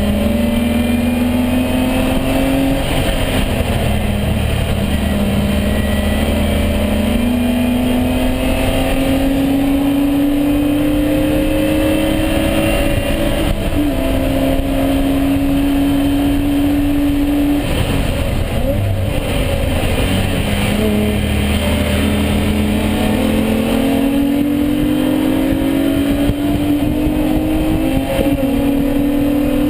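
BMW E36 race car's straight-six engine at racing revs on track, climbing in pitch through each gear and dropping back at the shifts, with a lift and downshifts partway through before pulling hard again.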